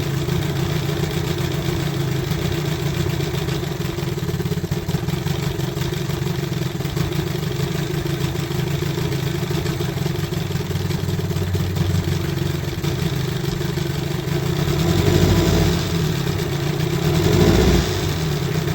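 Old outboard motor idling steadily as it warms up, just revived after sitting and running on two-year-old gas. It swells louder twice near the end, as if revved briefly.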